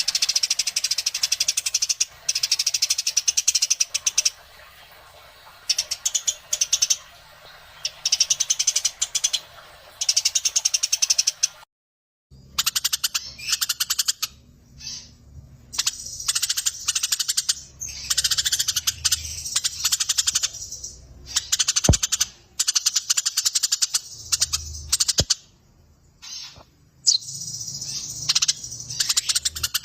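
Eurasian tree sparrows chattering in long, rapid rolling runs of chirps, a few seconds at a time with short pauses: the agitated chatter of sparrows squabbling. The sound breaks off for a moment about twelve seconds in.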